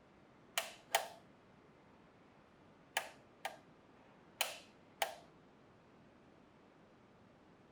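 Six short, sharp clicks of small hard objects, in three pairs about half a second apart.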